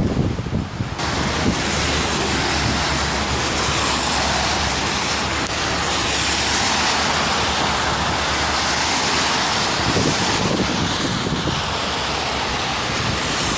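Heavy rain falling, a dense steady hiss that fills in about a second in, with wind rumbling on the microphone.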